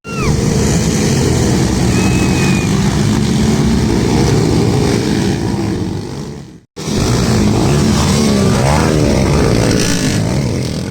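Motocross dirt bike engines running hard close by, the pitch rising and falling as the throttle is worked. The sound breaks off for an instant about two-thirds through, then carries on.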